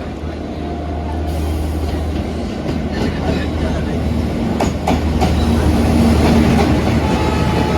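Express train running along the track, its wheels rumbling on the rails, with a few sharp clicks over rail joints about halfway through. It grows steadily louder.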